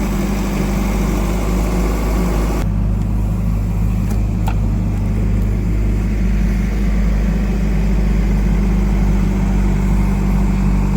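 Heavy diesel machinery engine running steadily with a deep, even hum. A little under three seconds in, the higher hiss drops away abruptly while the engine hum carries on.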